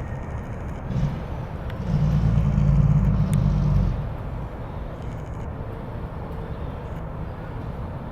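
Fire truck engine rumbling as the truck drives off, swelling louder about two seconds in and then settling into a lower, steadier rumble.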